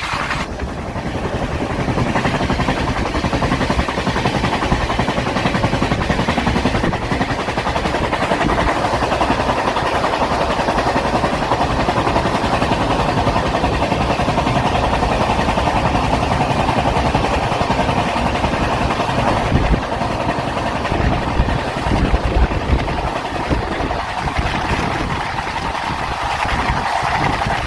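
Steady rumble and rattle of a moving passenger train, with a run of sharper knocks about twenty seconds in.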